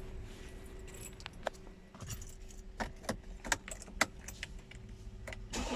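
Keys jingling and clicking at the ignition of a Mercedes Sprinter diesel van. Near the end the engine suddenly begins to crank.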